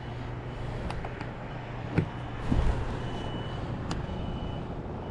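A vehicle's reversing alarm starts beeping about three seconds in, one high beep roughly every second, over a steady low engine hum. A few sharp metallic clicks come from tools being handled.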